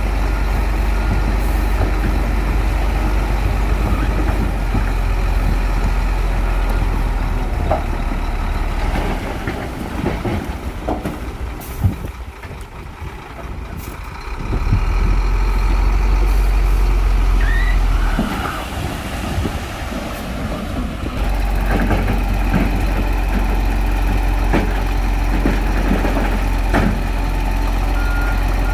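Shantui crawler bulldozer's diesel engine running hard under load, with knocks and clanks from the machine as it works; the engine drops off for a couple of seconds about halfway, then comes back strong. A reversing alarm beeps near the end.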